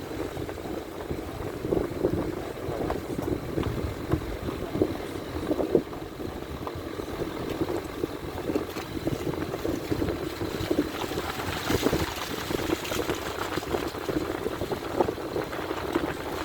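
Floodwater rushing along a dirt track turned into a stream, a steady rushing noise, with wind buffeting the microphone.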